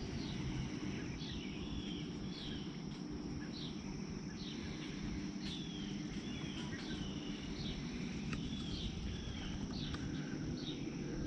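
Birds calling: short, high notes that slide down in pitch, repeating about once a second, over a steady low background noise.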